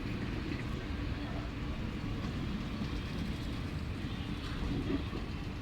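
Express train hauled by a WAP7 electric locomotive approaching on the line, a steady low rumble.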